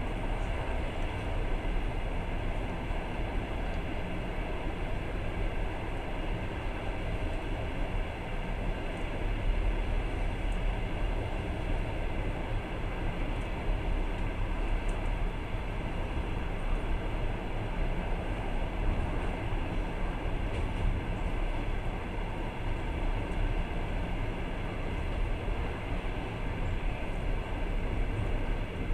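Long-distance passenger train running along the track, heard from inside the carriage: a steady rumble of wheels and carriage noise.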